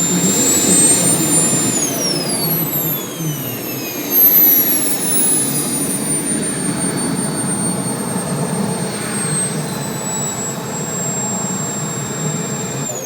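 Model jet's small turbine engine running with a high whine over a steady rumble. The whine climbs in pitch a few seconds in, eases back down over the following seconds, then starts to fall away sharply at the very end.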